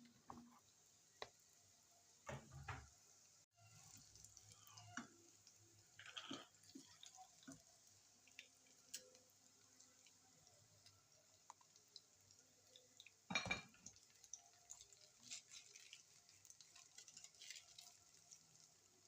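Quiet kitchen handling: scattered light clicks and clinks of utensils and dishes, with one louder knock about thirteen seconds in.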